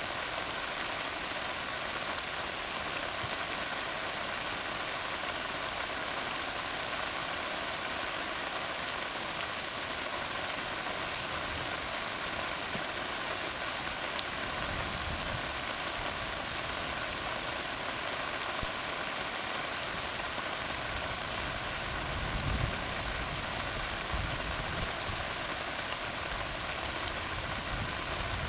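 Steady rain falling on a tar road, an even patter with scattered sharper drop ticks. A low rumble swells up about halfway through and again later on.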